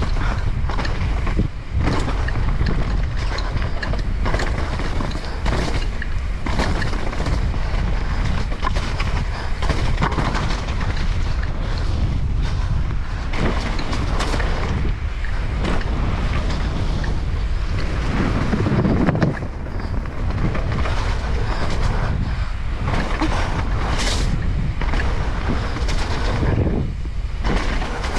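Heavy wind buffeting on the microphone as a mountain bike descends a trail, with frequent knocks and rattles from the bike over rough ground.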